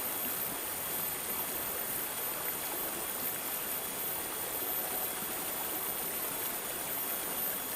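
Running water babbling and trickling steadily, a constant gurgle with no breaks.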